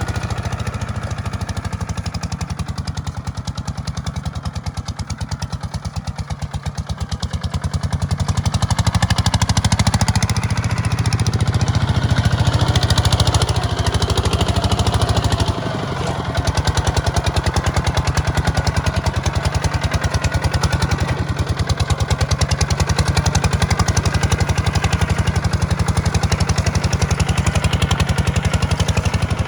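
Kubota tractor's diesel engine running steadily with a low pulsing throb. It is quieter for a few seconds near the start, grows louder about a quarter of the way in, and drops briefly about halfway through.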